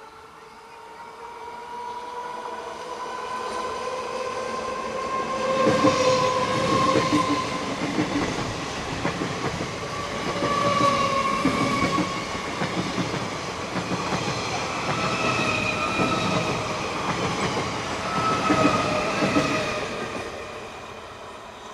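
Indian Railways EMU local train passing at speed without stopping. A whining tone builds, then from about six seconds in the clatter of wheels on the rails takes over as the coaches go by, fading near the end.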